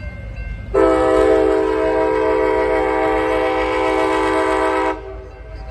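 MARC commuter train's air horn sounding one long, loud blast of about four seconds, a steady chord of several tones, over a low rumble.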